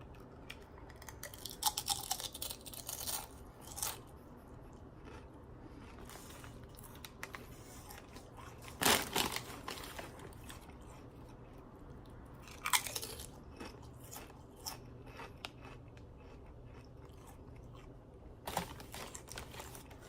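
Lay's paprika-flavoured potato chips being crunched and chewed close to the microphone. There are several sharp crunches, the loudest about nine and thirteen seconds in, with quieter chewing between them.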